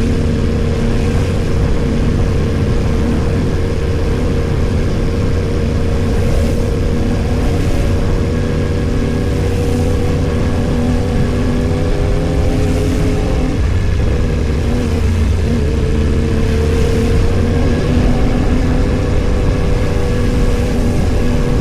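Yamaha R1 sportbike's inline-four engine running at a fairly steady pitch while lane splitting through slow traffic, the note dipping briefly about two-thirds of the way through before picking up again.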